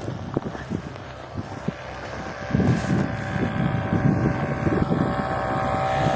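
Airboat's engine and air propeller running, growing steadily louder through the second half, with wind buffeting the microphone.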